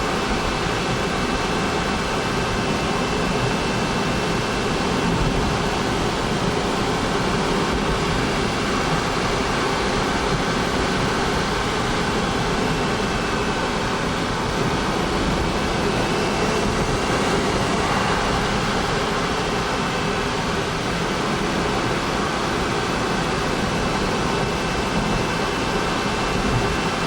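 Honda S660's turbocharged three-cylinder engine running steadily, a continuous even drone with faint steady tones, shifting slightly in pitch about 17 seconds in.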